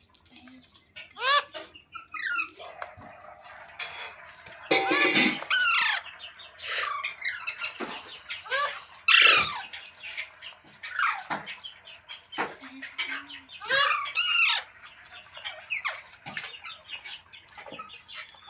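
Ringneck parrot giving a series of short, harsh squawking calls at irregular intervals, with a longer burst of calls about a third of the way in.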